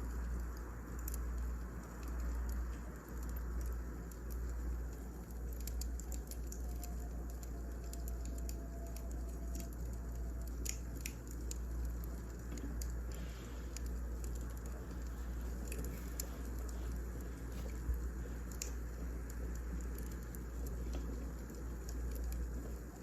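Burning firewood crackling: scattered sharp pops and snaps over a steady low rumble.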